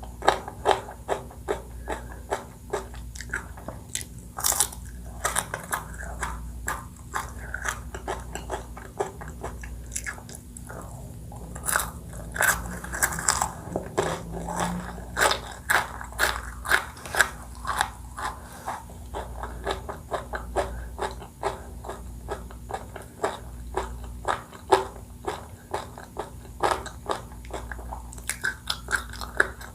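Close-miked eating of ice cream desserts: a steady run of crunchy bites and wet chewing, several sharp crunches a second with short pauses.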